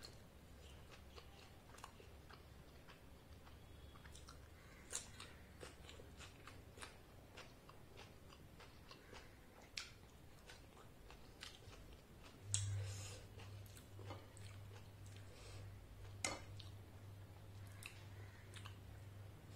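Close-up mouth sounds of chewing luchi with ghugni: soft wet smacks and small clicks. About two-thirds of the way through there is a louder knock, after which a steady low hum sets in; near the end a spoon scoops ghugni.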